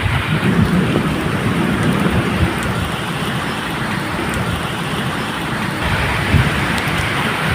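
Medium rain falling steadily, with a low, uneven rumble of thunder underneath.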